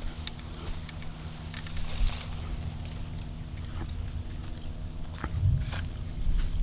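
Insects trilling steadily and high-pitched over a low rumble, with a few scattered small clicks.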